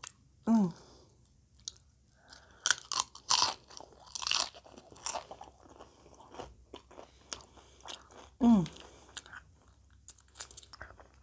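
Tortilla chips from a plate of nachos being bitten and chewed: crisp crunching that is densest in the middle, then softer wet chewing. Two short falling hums of the voice, one just after the start and a louder one near the end.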